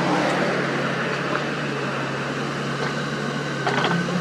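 Diesel engine of construction machinery running steadily, with a few short knocks near the end.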